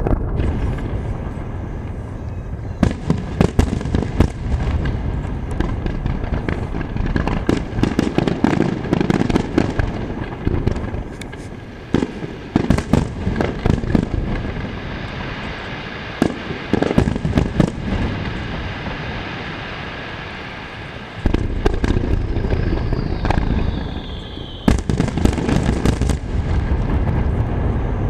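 A computer-timed 'digital starmine', a Japanese rapid-fire fireworks sequence, bursting in the sky: many bangs in quick succession over a continuous rumble. A falling whistle is heard near the end.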